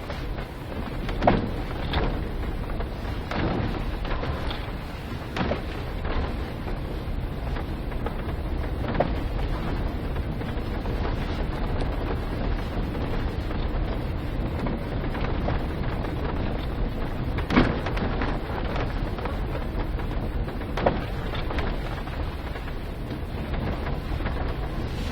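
Volkswagen Polo Sedan driving with a steady low road rumble, its suspension giving sharp knocks at irregular moments, the loudest about a second in and again near the end; the knocking is the suspension fault the car has.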